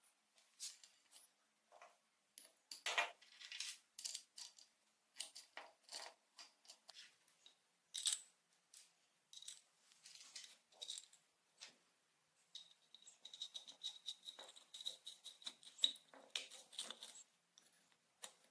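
Small metal parts clinking and tapping as they are handled, in irregular light strikes, with a thin ringing tone for a few seconds past the middle.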